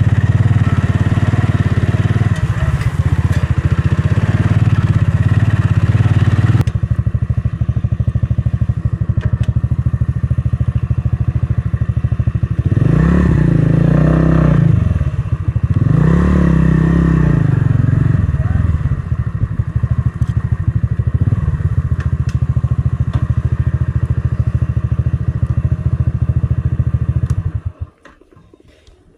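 Motorcycle engine running, rising and falling in pitch twice as it is revved or accelerated, then cutting off suddenly near the end.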